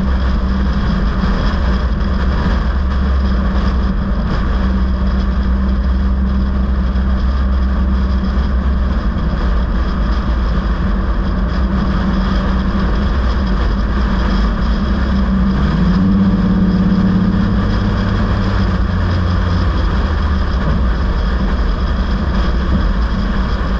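Motor vehicle engine and road noise running steadily. About two-thirds of the way through, a second, higher engine note joins for a few seconds and then fades back.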